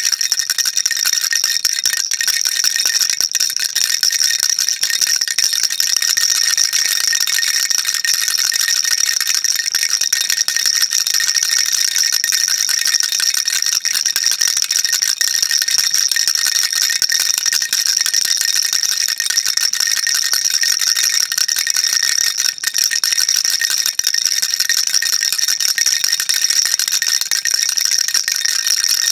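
Baby rattle shaken continuously, a dense, even, high-pitched rattling of small beads with no pause in the rhythm.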